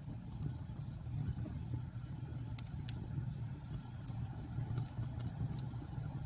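Wood bonfire burning: a steady low rumble of flames with sharp pops and snaps of burning wood scattered through, several of them coming close together in the middle.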